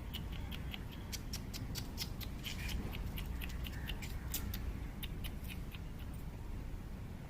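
Rapid, sharp chattering calls of a small animal, a few a second, that stop about five and a half seconds in, over a steady low rumble.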